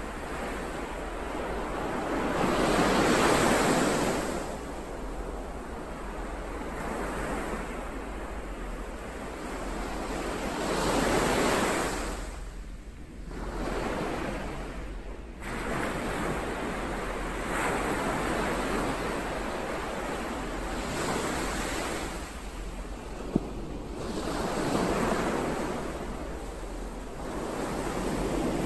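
Ocean waves breaking and washing up on the shore, swelling to a surge every several seconds and then ebbing. A single sharp click about two-thirds of the way through.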